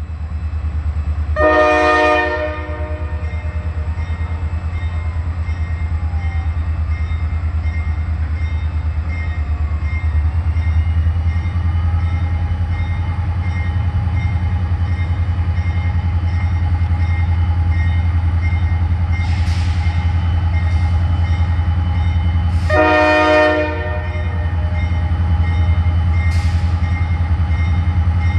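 Diesel freight locomotives running with a loud, steady low rumble while the lead unit sounds its air horn in two long blasts, one about a second in and one near the end. A crossing bell rings steadily in the background, with a few short hisses of air late on.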